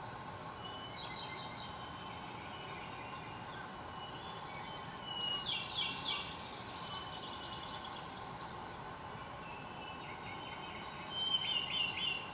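Wild songbirds singing: several bursts of quick, high chirping notes, the loudest phrase a few seconds in and another near the end, over a steady background hum.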